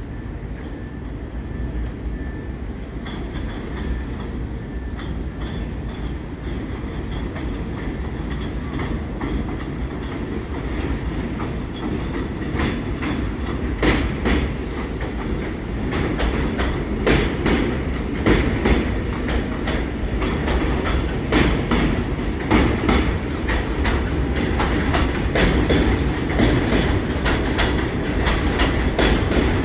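New York City Subway train of SMEE cars running on the rails: a steady low rumble with wheels clicking over rail joints, getting louder, with the clicks coming thicker from about halfway through.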